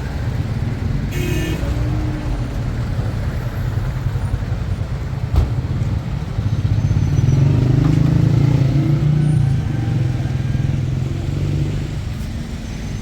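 A car driving, its engine and road noise running steadily and growing louder about seven seconds in before easing off near the end, with a single sharp knock about five seconds in.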